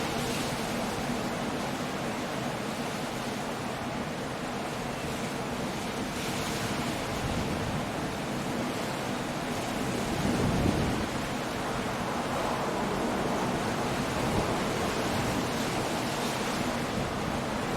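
Stormy sea: waves surging and breaking on a rocky coast with wind, a steady rush of noise that swells briefly about ten seconds in.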